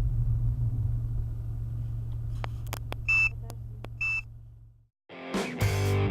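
Steady low drone of a car heard from inside, with a few sharp clicks and two short high electronic beeps about a second apart; the drone cuts off about five seconds in and music starts.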